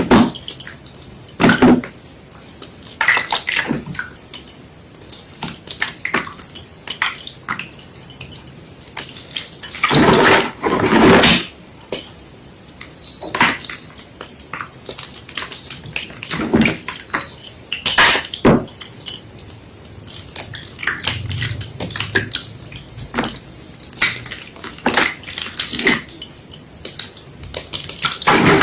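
Gym chalk mixed with water crunching and crumbling in irregular crackles, with louder, longer crushes about ten seconds in, again near eighteen seconds, and at the end.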